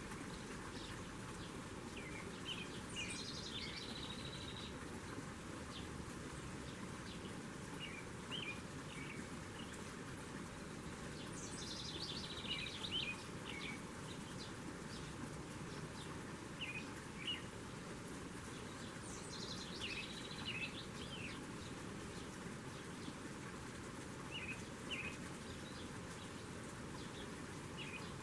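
Songbirds at a feeder: one bird repeats a falling, trilled song phrase three times, about eight seconds apart, while short high chirps come in between. All of this sits over steady background noise.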